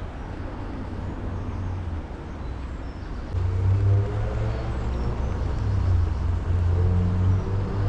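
Low, steady outdoor rumble that grows louder about three seconds in, with soft background music coming in at about the same time.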